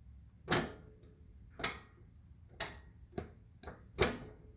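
A series of sharp clicks or clacks, six in all: the first three about a second apart, then closer together near the end, each dying away quickly.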